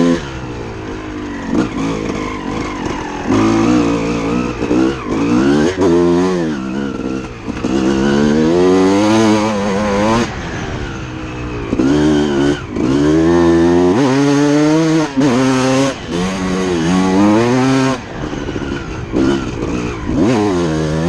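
Suzuki RM250 two-stroke motocross bike being ridden hard: the engine revs up and drops off over and over as the throttle is opened and chopped, each climb lasting one to three seconds.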